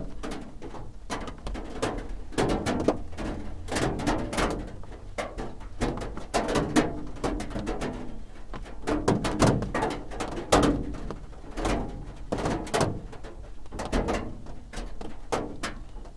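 Raindrops drumming on a roof: an irregular patter of sharp, closely spaced hits, some louder than others.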